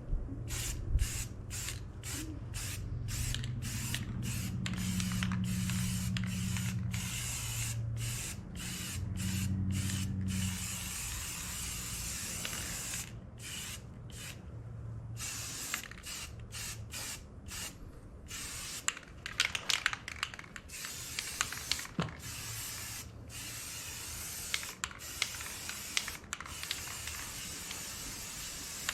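Spray paint hissing out in many short bursts, with brief breaks between them as the nozzle is let go and pressed again, while a front weight is painted. A steady low hum runs under the first ten seconds or so.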